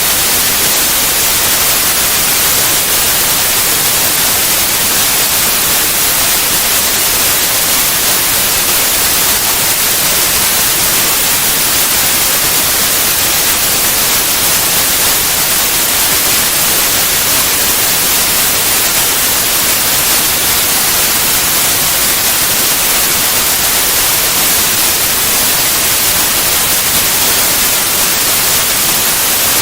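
Steady synthetic white noise, an even hiss across all pitches with no changes or events.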